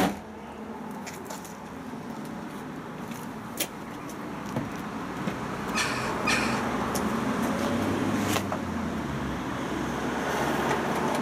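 Scattered short clicks and knocks, a handful over several seconds, over a steady low rumble.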